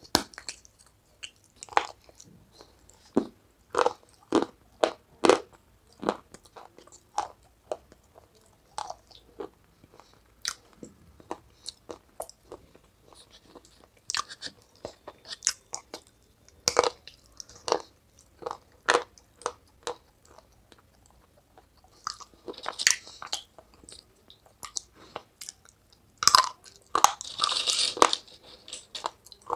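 Crunching bites and chewing of brittle food, single crisp crunches coming roughly a second apart, with thicker runs of crunching about three-quarters of the way through and again near the end.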